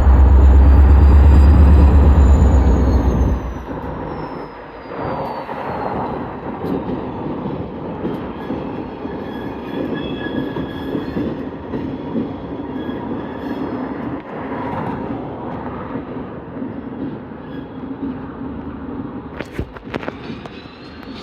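Freight train passing: a loud, low locomotive rumble for the first three seconds or so, then the freight cars rolling by with a steady rumble and faint high wheel squeal.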